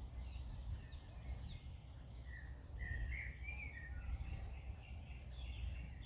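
Several birds singing in short chirping phrases, busiest from about two seconds in and again near the end, over a steady low rumble of wind.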